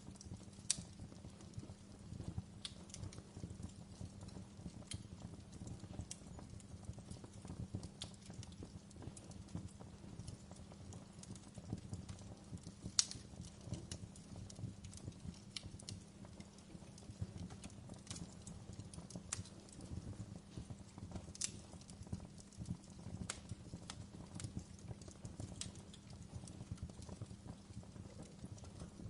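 Wood fire burning in a fireplace: a steady low rumble of flames with irregular crackles and sharp pops from the logs, the loudest pop about halfway through.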